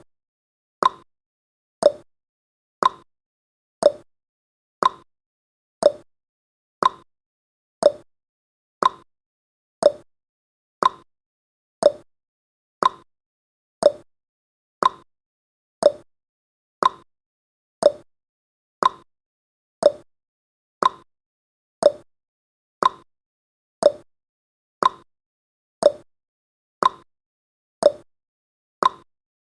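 Countdown timer's tick sound effect: a short, hollow plopping blip repeated steadily about once a second.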